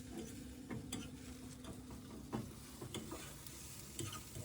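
Light, irregular clicking and scraping of a utensil against cookware while eggs are prepared.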